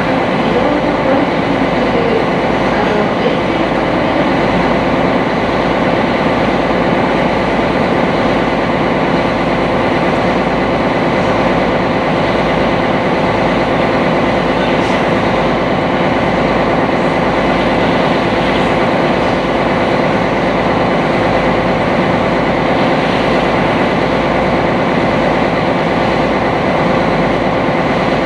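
Sightseeing boat's engine running at steady cruising speed, heard on board: a constant loud drone with several steady hum tones.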